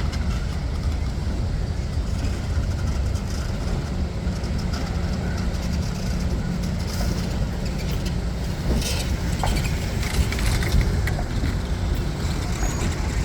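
Passenger train's diesel locomotive rumbling steadily as the train pulls slowly into the station.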